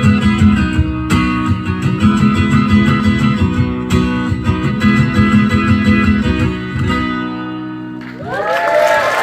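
Acoustic guitar strummed in a steady rhythm, closing out a song; the last chord rings out and fades about seven seconds in. About a second later the audience starts applauding and whooping.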